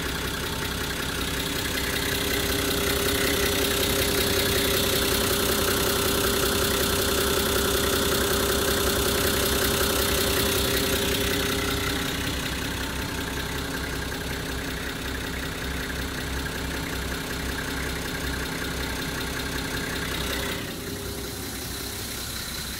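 Nissan Civilian bus's TD42 straight-six diesel engine idling steadily. It grows louder about two seconds in, eases off about twelve seconds in, and drops again a little after twenty seconds.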